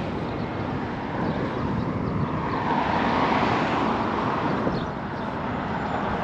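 Road traffic going by, one vehicle swelling past about midway, with wind buffeting the microphone.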